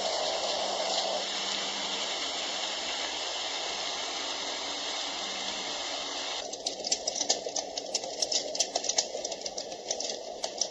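Dreamegg Pocket Sleep 1 mini white noise machine playing its sleep sounds through its small speaker: a steady rushing, hissing noise, which about six and a half seconds in switches to a crackling sound full of sharp clicks.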